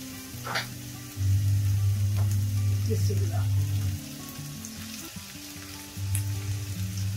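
Onion, green chilli and ginger-garlic sizzling in hot oil in a non-stick frying pan, with raw minced mutton dropped into it by hand. Background music with held low notes plays over the sizzle and is louder than it for stretches.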